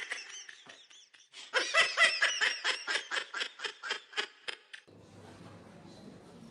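A person laughing in a quick run of high-pitched bursts, about five a second, which stops a little before the end.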